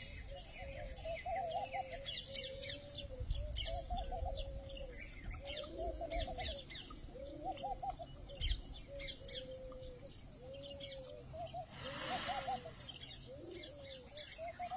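Birds calling: a low, arching call repeated roughly once a second, with quick high chirps from smaller birds in between. A brief rustling hiss comes about twelve seconds in.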